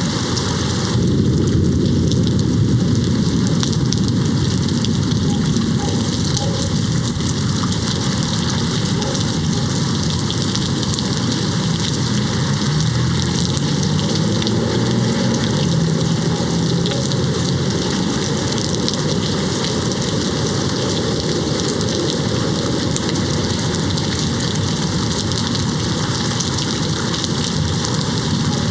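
Steady heavy rain hitting a window pane. A low, distant thunder rumble swells about a second in and again around the middle.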